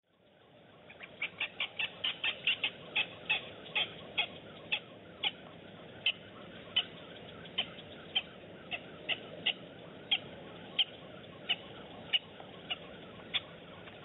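A bird calling a long series of short, sharp notes, quick at first and then slowing and spacing out, over a steady background hiss.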